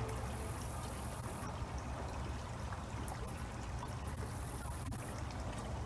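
Garden pond water trickling and splashing steadily, with a low steady rumble beneath.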